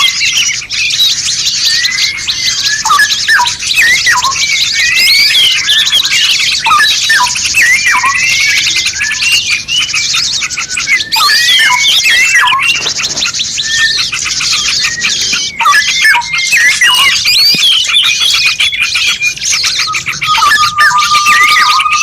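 A dense chorus of songbirds, many birds chirping and whistling at once over a continuous high chirring, as used in masteran recordings to teach caged songbirds. Near the end a long, steady whistle starts and is held.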